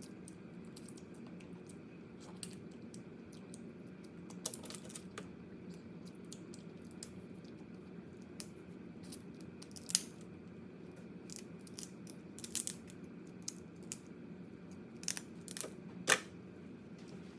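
Crab shell being cracked and picked apart while eating: scattered small clicks and crackles, with two louder cracks about ten and sixteen seconds in, over a steady low hum.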